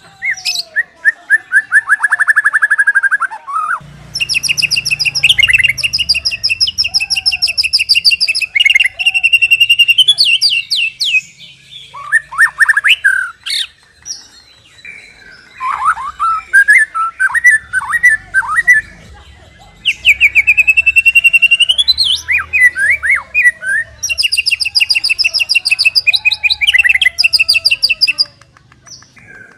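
White-rumped shama (murai batu) singing a loud, varied song of rapid repeated notes, trills and whistled phrases with short pauses between them, with a faint low rumble behind parts of it. This is a master song used to train captive shamas to sing.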